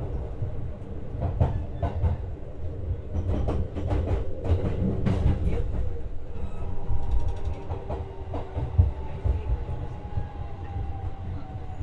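Heard from inside the cabin of a JR West 125 series electric railcar: the running rumble, with a run of sharp clicks and clacks from the wheels crossing rail joints or points. From about halfway through, a motor whine slowly falls in pitch as the train slows.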